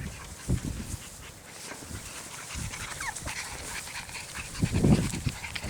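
Young puppies playing, with a short falling whine about three seconds in and low muffled thumps about half a second in and again near five seconds.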